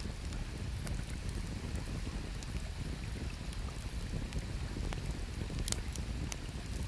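Wood campfire crackling, with a few scattered sharp pops and the loudest about three-quarters of the way through, over a steady low rush of river water.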